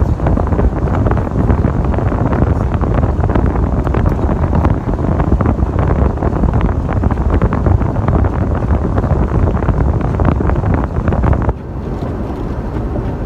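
Wind buffeting the microphone: a loud, rough rushing noise, heaviest in the bass, that drops off suddenly about eleven and a half seconds in.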